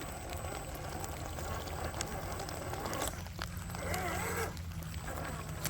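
Scale RC crawler truck's electric motor and geared drivetrain whirring steadily at crawling speed, with a brief warbling tone about four seconds in.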